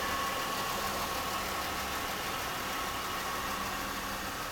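2009 Chevrolet Impala's engine idling steadily, with a steady high tone running over it.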